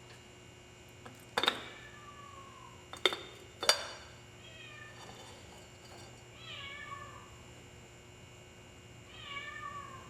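A cat meowing several times, each call falling in pitch. Three sharp clanks in the first four seconds are louder than the meows.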